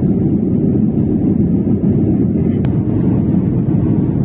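Steady low rumble of airliner cabin noise, the engines and airflow heard from inside the passenger cabin, with a faint click about two and a half seconds in.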